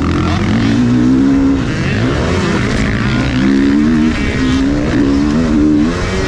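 Motocross bike engine revving hard under the rider's throttle, its pitch rising, holding and dropping several times as he accelerates and backs off, with a dip about two seconds in and another near the end, over steady wind and track noise.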